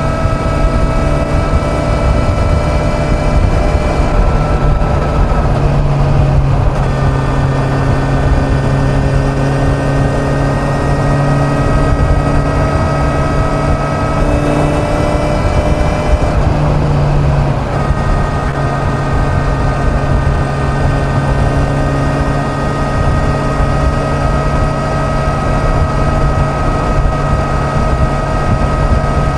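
Kawasaki Z900 inline-four motorcycle engine running at highway speed, under heavy wind rush, with its note shifting a few times as the throttle changes.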